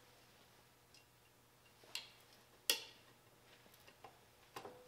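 A few sharp metallic clicks and taps from a hand valve spring tool being worked against the valve springs and retainers on a diesel cylinder head. The loudest click comes a little past halfway, with fainter ticks between.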